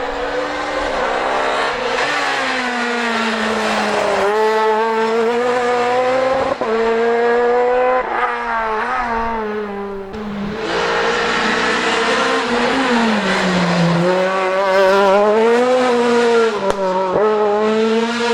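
Renault Clio R3 rally car's 2.0-litre four-cylinder engine driven hard, its note rising and falling repeatedly as it revs and drops through the gears. The sound changes abruptly about ten seconds in, and a few sharp cracks come near the end.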